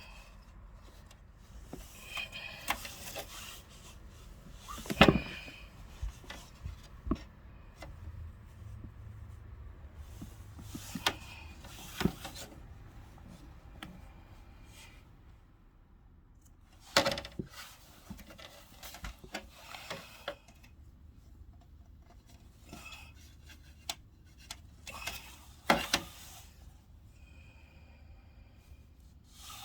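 Hands working on a Midea air conditioner's parts during a repair: irregular knocks, clicks and taps, with rubbing and scraping between them.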